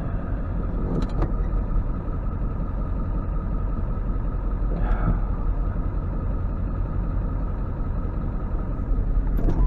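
Tow truck running with a steady low rumble of engine and road noise while it tows a pickup on its wheel lift, with a couple of faint clicks.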